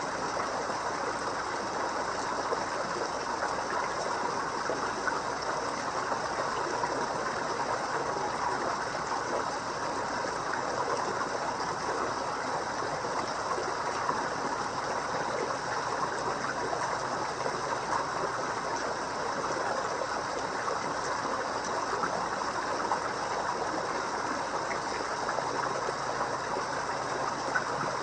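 Water splashing and trickling steadily into a koi pond, most likely from a pond waterfall or fountain inflow.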